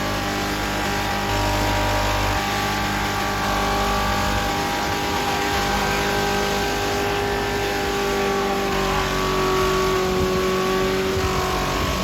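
Car engine running steadily with the throttle held to the floor, its pitch sagging slightly a little past the middle, while the leaking transmission overheats.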